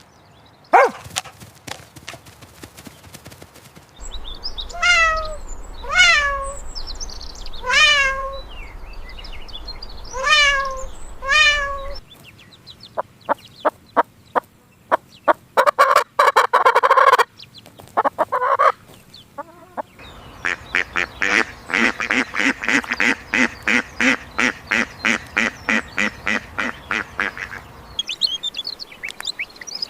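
A run of separate animal calls: five honking bird calls, each falling in pitch and about two seconds apart, then scattered clicks and a short harsh burst, then a long call of fast, even pulses.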